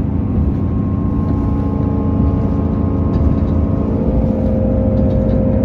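Diesel passenger train's engine running with a loud, steady drone; one of its tones steps slightly higher about four seconds in.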